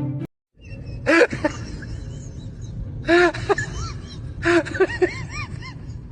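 An animal's short, high-pitched calls, each rising and falling in pitch, in three quick groups over a steady background hiss. Music cuts off just before them.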